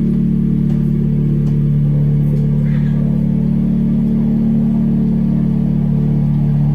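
Live noise-music drone: a loud, steady mass of held low tones that barely changes.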